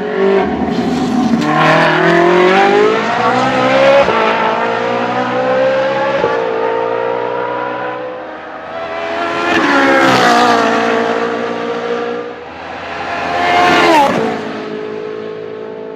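Ferrari 458 Challenge Evoluzione race car's V8 engine and exhaust at high revs, the pitch climbing and dropping back through upshifts. In the second half it swells and falls in pitch twice as the car passes by.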